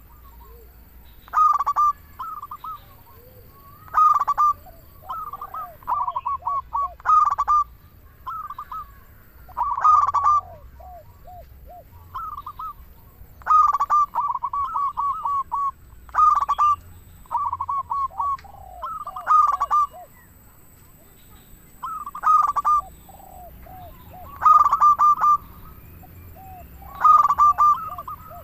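Zebra dove (perkutut) singing: phrases of quick, rolling coos repeated every two to three seconds.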